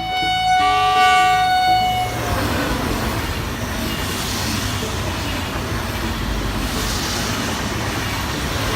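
Train horn sounding for about two seconds, then the steady rolling noise of a passing train.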